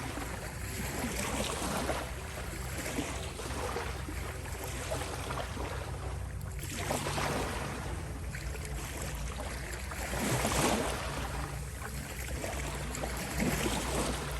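Ocean waves washing ashore in repeated surges, each swell rising and falling over a few seconds, over a steady low drone.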